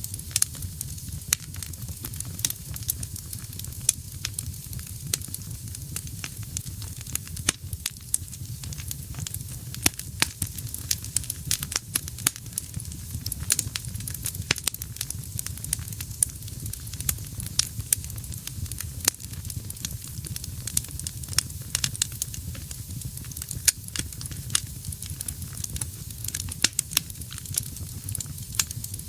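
Wood fire burning in a fireplace: frequent sharp, irregular crackles and pops over a low steady rumble of the flames.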